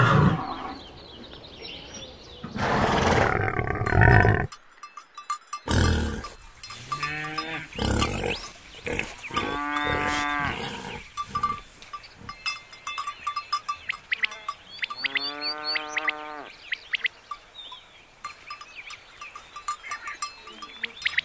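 Farm animals calling across several separate clips, with two long drawn-out calls about ten and sixteen seconds in and short chirps and knocks between them.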